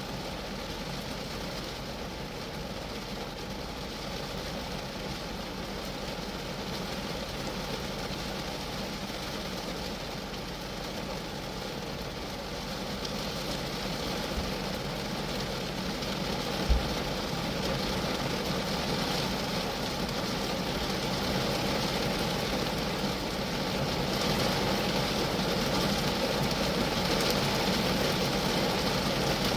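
Steady rain falling on a Geo Metro, growing gradually louder and heavier over the stretch, with one short low thump about two-thirds of the way through.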